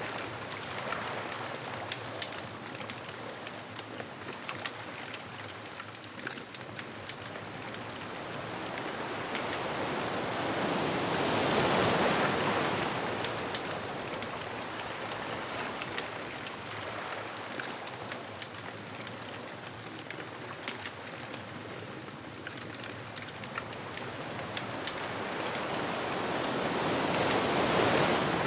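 Ocean waves washing onto the beach, two surges swelling up and falling away, one about twelve seconds in and one near the end, over a steady wash of surf. Light scattered crackling from the bonfire runs throughout.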